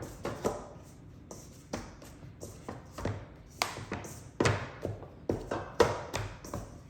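Hands working floured dough on a board: a run of irregular taps and soft knocks, a few of them sharper.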